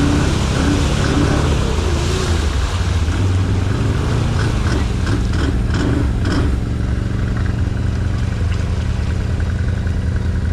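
Off-road vehicle engine revving up and down under load in reverse, trying to back out of a mud hole, with a run of short clattering clicks about halfway through. The vehicle stays stuck.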